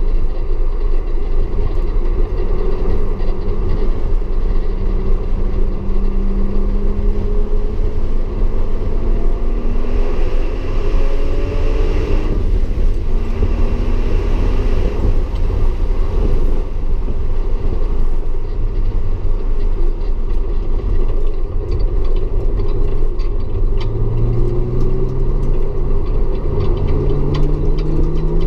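Audi S4 engine at track pace, its pitch rising slowly as the car accelerates and dropping back between pulls, over a heavy low rumble of tyre and road noise. A band of hiss swells for a few seconds around the middle.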